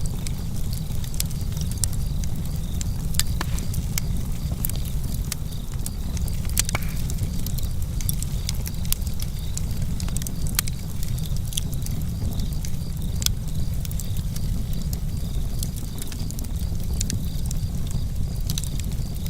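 Campfire burning, with a steady low rumble and frequent irregular sharp crackles and pops from the burning wood.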